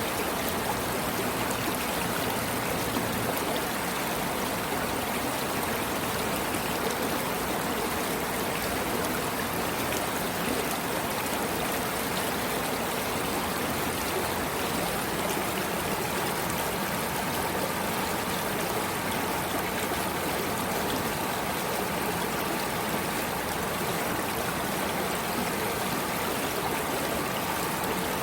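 Water of a stream flowing steadily, an even rush that stays level throughout.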